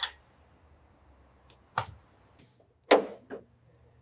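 A few sharp knocks from work on fitting and tightening a new exhaust muffler, two of them loud, about two and three seconds in, with fainter taps between.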